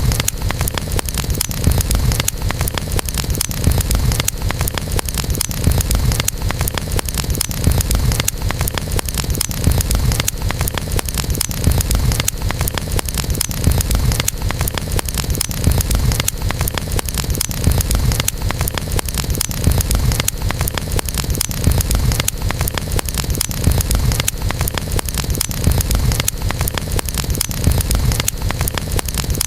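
Campfire burning with dense small crackles over a low rumble that swells and eases every second or two.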